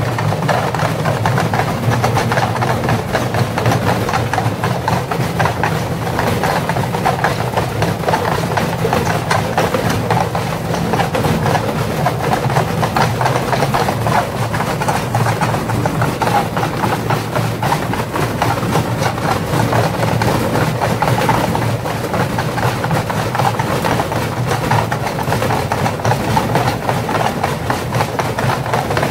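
Indesit washing machine running with heavy bricks loaded in its drum: a steady low drone with continuous rapid rattling and banging.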